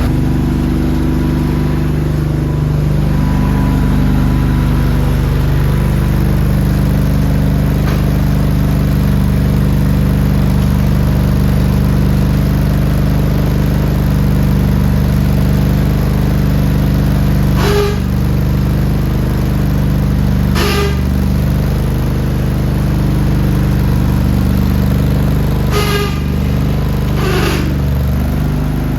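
Craftsman riding lawn mower's small gasoline engine running at a steady speed. Four brief sharp sounds break in over it in the second half.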